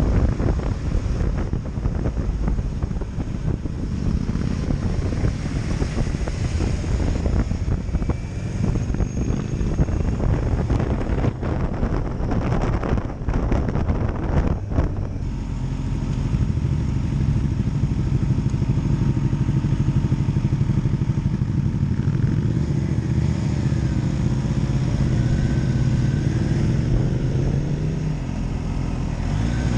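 Motorcycle engine running under way with wind noise. About halfway through, the sound settles into a steady, even engine note.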